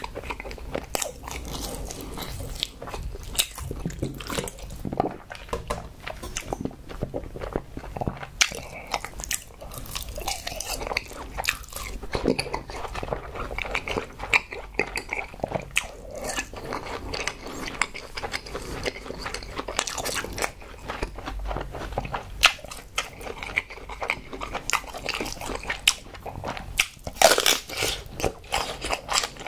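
Close-miked chewing and crunching of food, with many small wet crackles from the mouth. Near the end comes a louder burst of wet biting and slurping as a slimy piece of aloe leaf is taken into the mouth.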